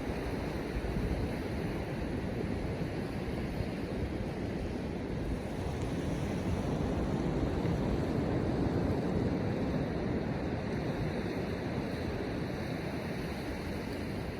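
Ocean surf washing steadily onto the beach, with wind on the microphone; the wash swells a little about eight to nine seconds in.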